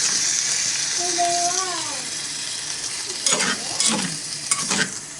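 Kimchi hotpot sizzling in a small cast-iron pot, a steady high hiss, with a short pitched sound about a second in. In the second half a utensil stirs the pot, knocking against the iron several times.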